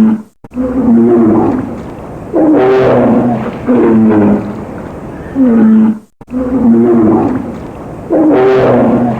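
Lion roaring: a series of short, loud, deep calls, each falling in pitch, about one every second and a half. There is a brief gap about six seconds in, where the same sequence starts again.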